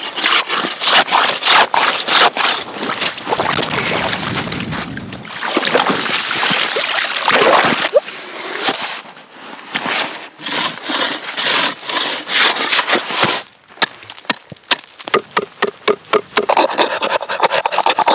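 Rough scraping and rubbing strokes, one after another, giving way near the end to a quick run of short, sharp scrapes, several a second.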